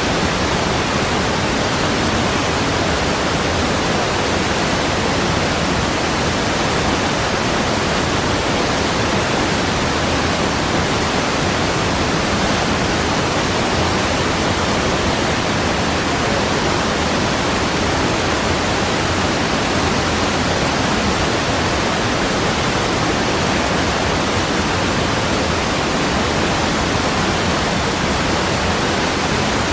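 Steady, unbroken rushing of water with an even hiss, no change in level throughout.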